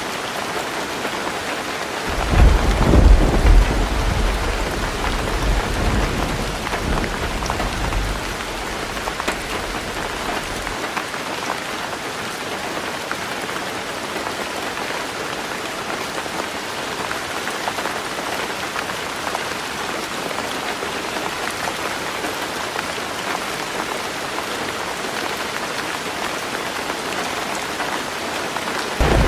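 Heavy rain falling steadily on a roof. A low roll of thunder comes in about two seconds in and dies away over several seconds, and another begins near the end.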